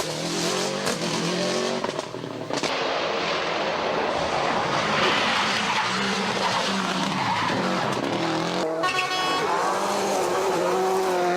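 Subaru Impreza GC8 rally car's flat-four boxer engine driven hard, its pitch climbing and dropping through gear changes. There is a brief lift about two seconds in, and the revs climb again near the end.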